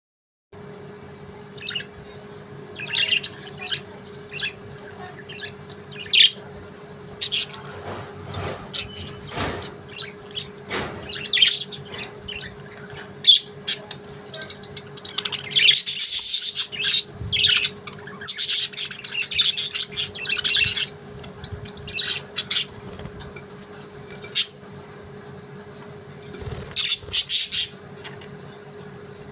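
Budgerigars chirping and chattering in short, quick calls, busiest in the middle, over a steady faint hum.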